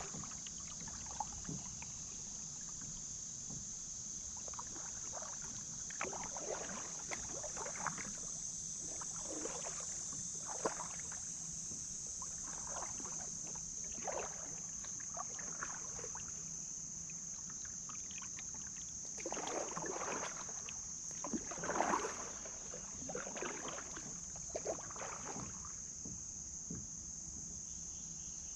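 Kayak paddle dipping and pulling through river water in irregular splashy strokes every second or two, over a steady high chorus of insects, likely crickets.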